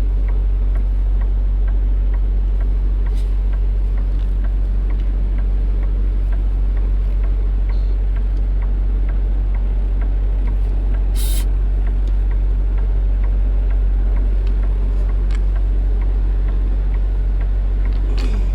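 Semi truck's diesel engine running steadily at low speed while the rig backs a trailer into a loading dock, with faint light ticking and a brief hiss about eleven seconds in.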